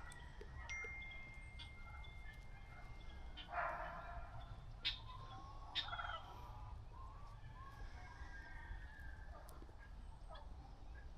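Faint farmyard sounds: a tom turkey gobbling, loudest about three and a half seconds in, with scattered small bird chirps and a couple of sharp knocks.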